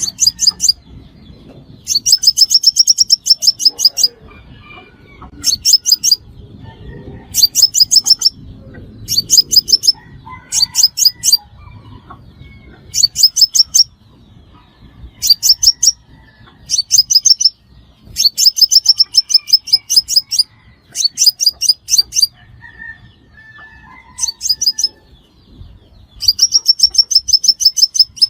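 Crimson sunbird calling: loud bursts of rapid, sharp, high-pitched chattering notes, each burst lasting from about half a second to two seconds, repeated with short pauses between them.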